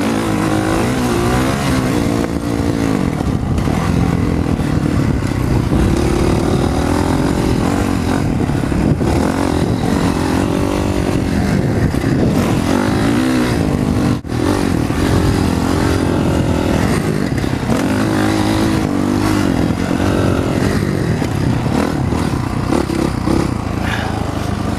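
Honda CRF450R's 450 cc single-cylinder four-stroke engine revving up and down as the rider works the throttle around a motocross track, with wind noise on the microphone. The engine sound drops out for a moment about fourteen seconds in.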